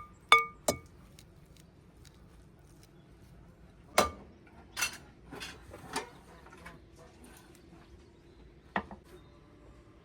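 Dishes and cutlery clinking: two short ringing clinks about half a second in, a scatter of knocks and clinks in the middle, and one more clink near the end.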